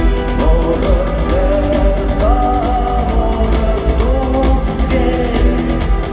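Rock band playing live, with a wavering melody line over guitars, a heavy bass and drums.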